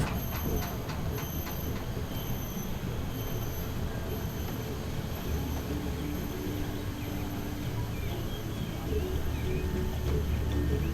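Sightseeing tram running: a steady low rumble of its motor and wheels, with a steady hum joining in about halfway through.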